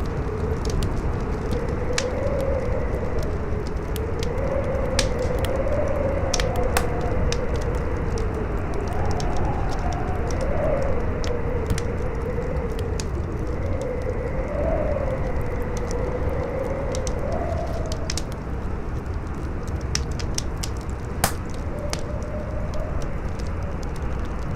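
Campfire crackling with scattered sharp pops, one louder pop near the end, over strong wind that howls in a wavering tone, rising and falling.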